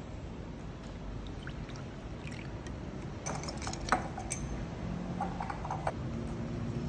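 Kitchen clatter: a cluster of sharp clinks and knocks of glass and dishes about halfway through, with a few lighter ringing clinks after, over a steady low hum.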